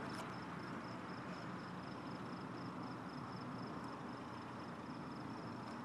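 Steady night-time outdoor hiss, with an insect chirping in a fast, even high-pitched pulse, about four or five chirps a second.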